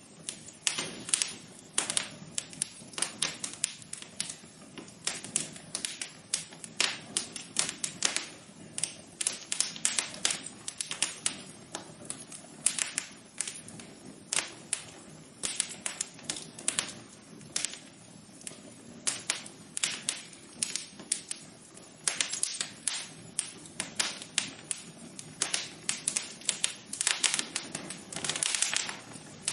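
Wood fire crackling in a fireplace: irregular sharp snaps and pops, several a second, over a soft low hiss.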